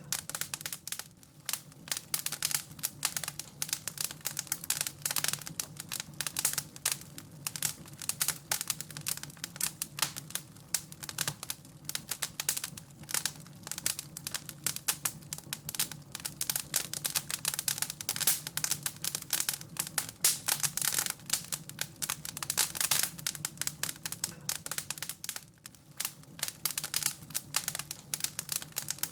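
Wood fire crackling in a fireplace: dense, irregular pops and snaps over a faint low steady hum.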